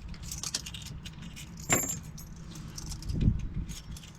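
Metal keys and lock parts clinking and jangling as they are handled, with one sharper ringing clink a little under two seconds in and a dull knock about three seconds in, over a steady low rumble.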